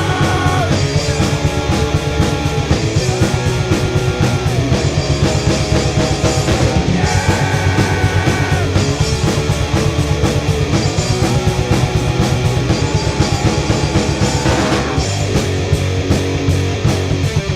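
Rock music with electric guitar, bass and a drum kit playing a steady beat, with sustained lead guitar notes over it.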